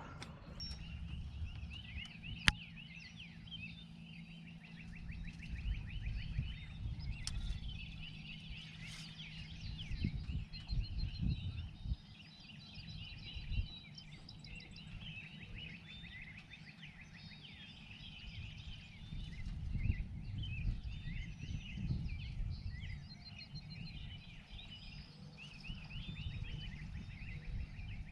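Songbirds chirping and trilling in quick repeated notes throughout, over a low, uneven rumble.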